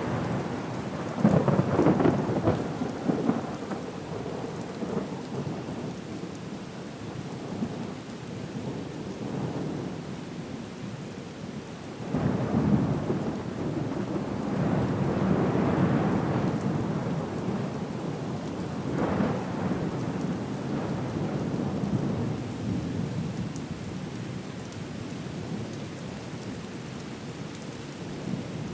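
Thunderstorm with steady rain and rolling thunder. One rumble comes about a second in, a longer one swells and fades from roughly twelve to seventeen seconds, and another comes a little later.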